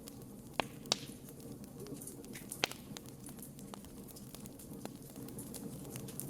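Wood campfire burning: a steady low rush of flame with constant small crackles and a few sharp, louder pops in the first three seconds.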